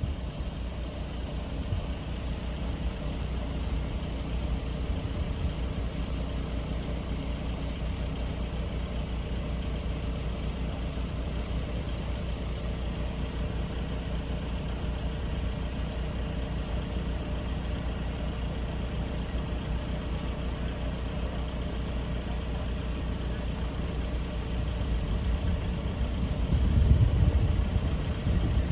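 An engine idling steadily as a low rumble, growing louder near the end.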